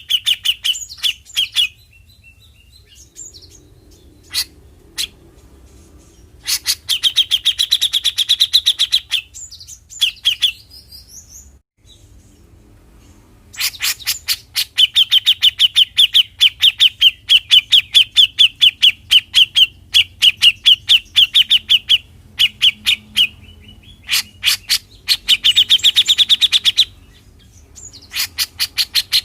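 Grey-cheeked bulbul (cucak jenggot) giving its 'besetan' call: fast runs of sharp, evenly repeated notes lasting a few seconds each, broken by short pauses.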